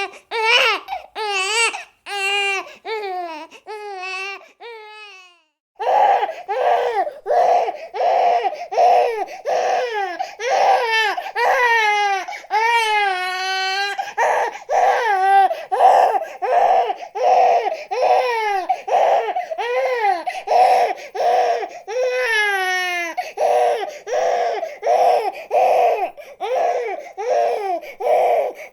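Baby crying in short rhythmic wails whose pitch bends up and down. The crying breaks off briefly about five seconds in, then resumes louder as quick repeated sobbing cries with a few longer drawn-out wails.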